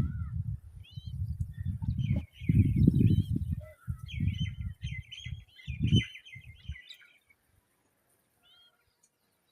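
Babblers calling in high, rapid chattering bursts, over a loud, low, uneven rumble. Both stop about seven seconds in, leaving only a couple of faint calls.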